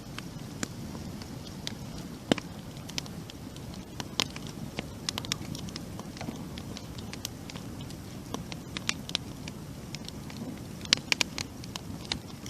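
Wood campfire burning: a steady low rush of flames with irregular sharp crackles and pops, a quick cluster of them near the end.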